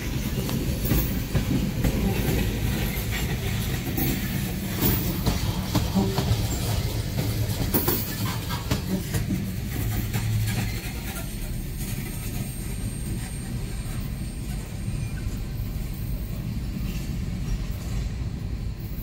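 Freight train of coal hopper cars rolling through a grade crossing, wheels clacking over the rail joints and crossing over a low rumble. The clacking stops about eleven seconds in as the last car clears, leaving a quieter low rumble.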